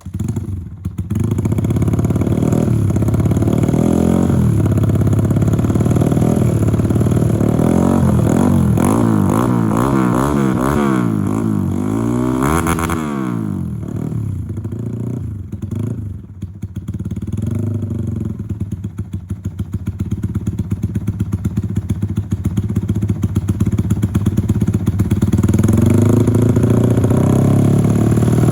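Yamaha Vixion's single-cylinder four-stroke engine, bored up to 177 cc, running through an aftermarket JRM exhaust that leaks at several points. It idles, is revved several times about halfway through, and then drops back to idle.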